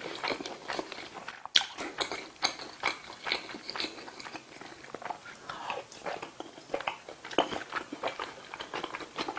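Close-miked chewing and wet mouth smacks and clicks of a person eating spicy tteokbokki, with a sharper click about a second and a half in.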